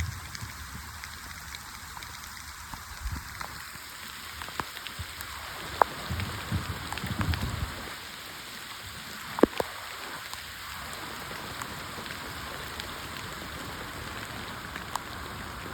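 Steady rain falling, with scattered small sharp clicks of drops and two louder clicks, about six and nine and a half seconds in. A stretch of low rumbling runs from about six to eight seconds in.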